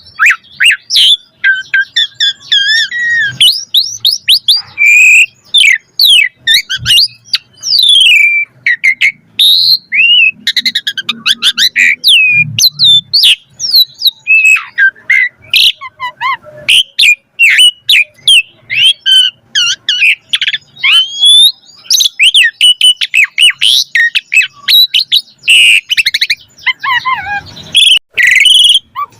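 Pied starling (jalak suren) singing a long, varied song of quick whistles, chirps and rising and falling glides, packed with mimicked phrases, with barely a pause.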